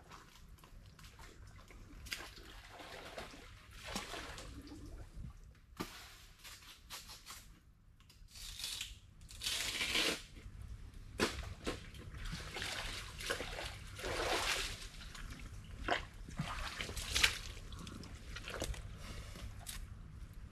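Wet sloshing and rustling from someone working in waterlogged mangrove mud and leaves, in irregular bursts that are loudest about halfway through and again near the end.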